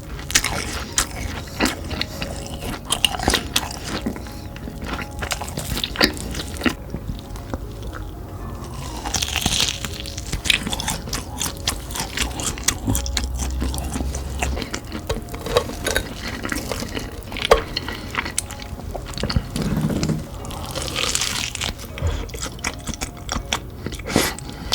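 Crunchy Hot Cheetos–coated fried food being bitten and chewed, with many sharp, irregular crunches, over background music.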